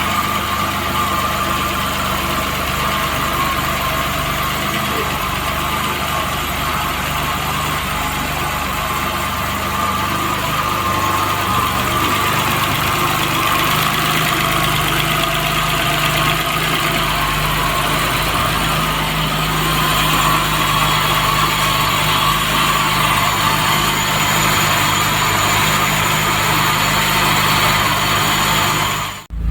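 The Alfa Romeo 164's 2.0-litre V6 turbo Busso engine running steadily at about idle, with an even pitch that grows a little louder in the second half.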